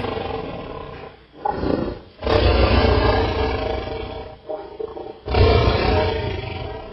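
A tiger roaring at close range: a short roar about a second and a half in, then two long roars, each starting sharply and fading away.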